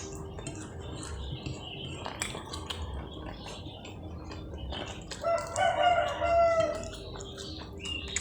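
A rooster crowing once, about five seconds in, for about a second and a half. Short clicks and smacks of eating are heard throughout.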